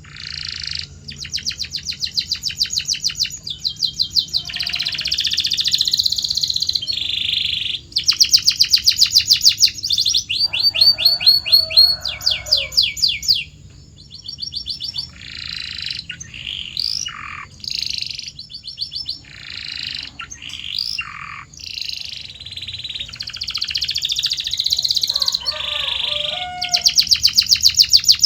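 Domestic canary singing a long, continuous song made of rapid trilled rolls, each phrase a fast run of repeated notes. A few steeply falling whistled notes come in the middle.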